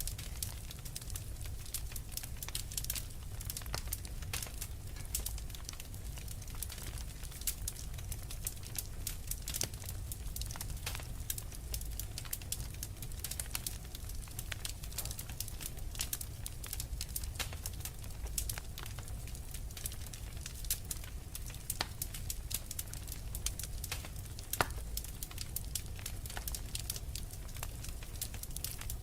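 Fire crackling steadily, with many small irregular pops and snaps over a low rumbling hiss, one louder pop about twenty-four seconds in.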